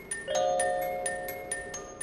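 Music box playing a slow, sad melody, with bright plucked notes about four a second. About a third of a second in, a lower chord is struck and rings on.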